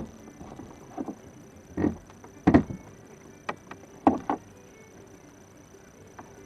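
Gear knocking and thumping in a boat: about six short, irregular knocks over roughly four seconds, then quiet.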